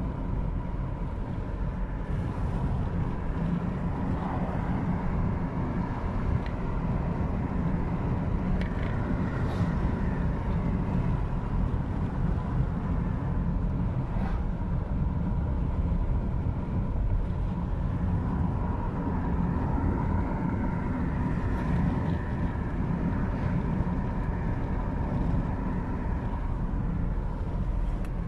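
Car driving along: a steady low rumble of road and engine noise, with a faint steady whine.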